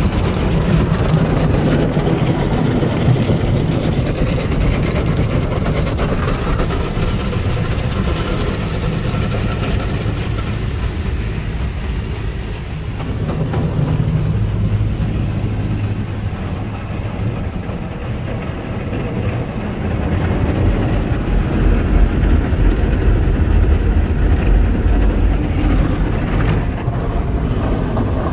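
Tunnel car wash equipment working over the car, heard from inside the car: a continuous loud churning rumble of machinery and water, growing deeper and heavier about two-thirds of the way through.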